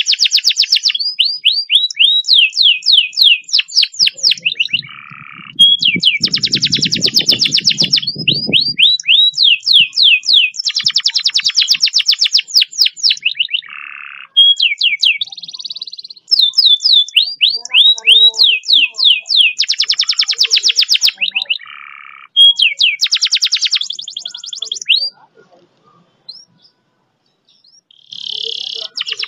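Domestic canary singing long, fast rolls: rapid trills of quickly repeated notes in phrases a few seconds long, with short breaks between phrases and a longer pause near the end.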